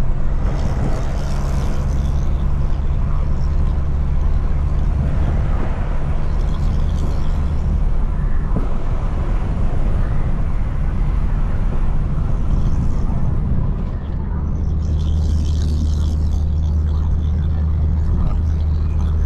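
BMW 335i's N55 turbocharged straight-six running steadily, heard through an exhaust-mounted microphone as a constant low drone, with a brief dip in level about two-thirds of the way through.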